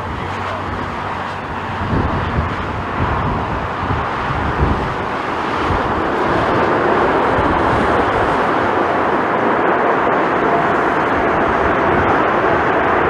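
Jet airliner engines running loud and steady, rising in level over the first few seconds, with gusts of strong wind buffeting the microphone about two to five seconds in. The sound cuts off suddenly at the end.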